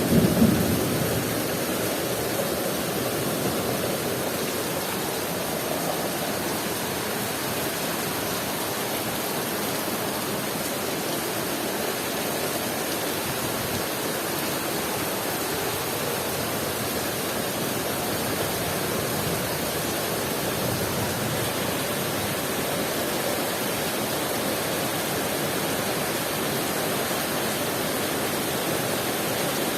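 Heavy rain pouring steadily. The last of a low thunder rumble dies away in the first second.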